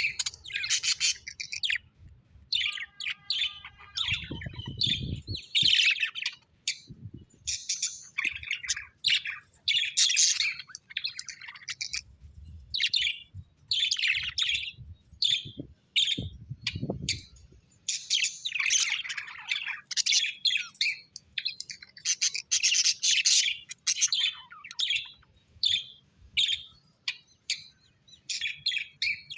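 Small birds, likely parrots, chirping and twittering in quick overlapping bursts with short pauses between them.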